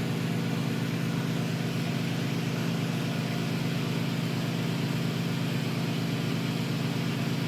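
Steady mechanical hum with an even hiss over it, from the neon-bending burner and its air blower running while the glass is heated.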